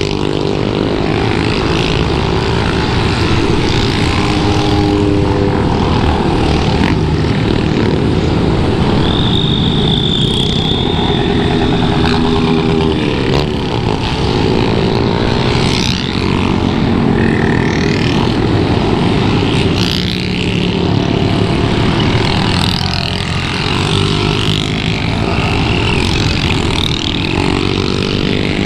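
Motorcycle engine running under way, its pitch rising and falling as the rider changes revs, with steady wind noise over the camera.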